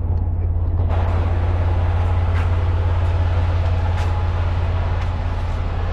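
Semi truck's diesel engine running steadily with a deep, even hum, a wider hiss of noise joining about a second in.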